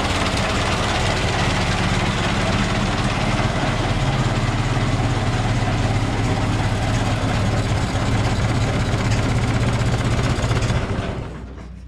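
Ford Model T's four-cylinder flathead engine idling steadily on its magneto ignition, then switched off about eleven seconds in and dying away over about a second.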